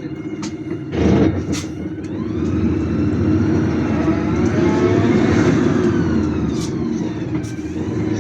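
City bus heard from inside: the engine runs under a steady rumble while a whine rises in pitch as the bus pulls away, then falls as it eases off. There is a short noisy burst about a second in, and a few light clicks and rattles.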